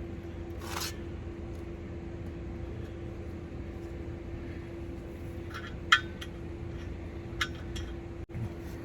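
A few light metallic clinks of hand tools on torque converter bolts, the sharpest about six seconds in, over a steady hum.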